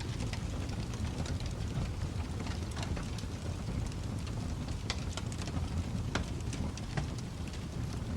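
Wood fire burning in a fireplace: a steady low rumble of the flames with scattered sharp crackles and pops, a few louder pops about five, six and seven seconds in.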